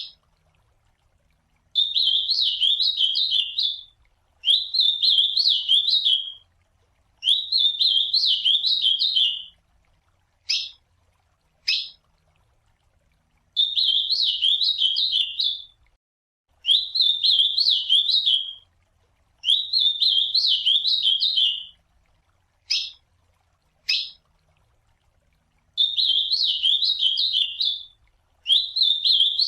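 Ultramarine grosbeak (azulão) singing its classic song: about eight warbled phrases of about two seconds each, every few seconds. Short single sharp call notes fall in some of the gaps.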